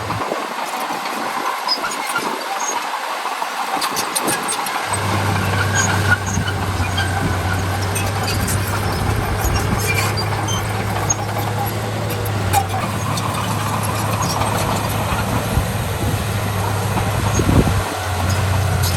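Diesel engines of heavy earthmoving machinery running steadily, with scattered metallic clanks and squeaks. A low engine hum drops out for the first few seconds, then comes back steady at about five seconds in.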